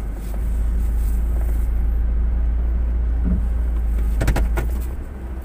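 Car engine idling, heard from inside the cabin as a steady low rumble, with a quick run of sharp clicks about four seconds in.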